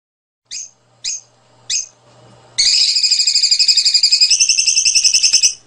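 Small songbird singing: three short chirps about half a second apart, then a long, loud, rapid trill that shifts in pitch partway through.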